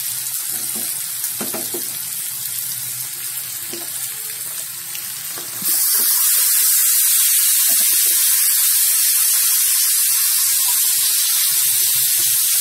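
Spice paste frying in a wok, with a few clicks of a metal spatula against the pan. About six seconds in, raw chicken pieces go into the hot wok and a loud, steady sizzle starts.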